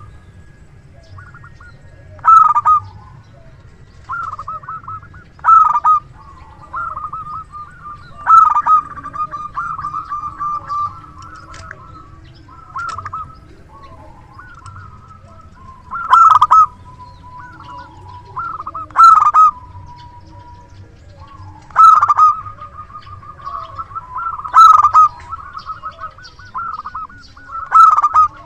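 Local zebra dove (perkutut) cooing its song over and over, in a big, full voice. Loud phrases come about every three seconds, with softer cooing notes between them.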